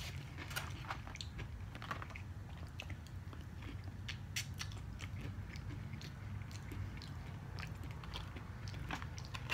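Close-up chewing of chow mein noodles and vegetables, with scattered small wet mouth clicks and light crunches.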